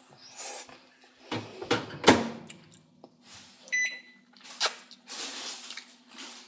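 Microwave oven door banging shut about two seconds in, after some handling knocks, then a short electronic keypad beep. A low steady hum runs underneath.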